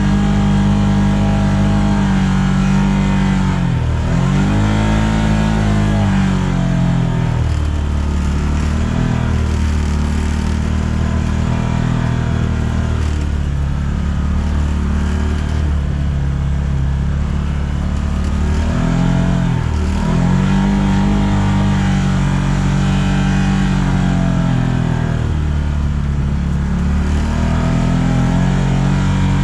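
An engine running steadily, its pitch dropping and climbing back up twice, about four seconds in and again near twenty seconds.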